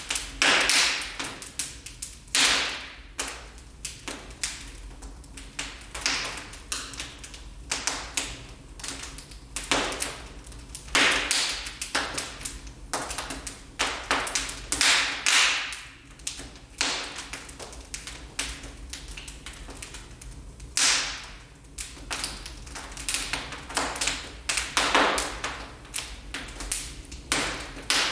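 Wood fire burning in a fireplace, crackling and popping irregularly with frequent sharp snaps over a low steady rumble.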